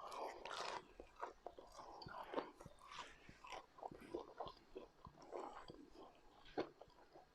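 A person chewing and biting food close to the microphone: an irregular run of soft crunches and mouth clicks.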